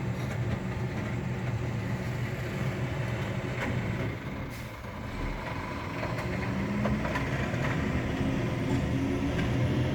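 Garbage truck running, its engine drone steady, dipping briefly about four seconds in and then rising slowly in pitch through the second half.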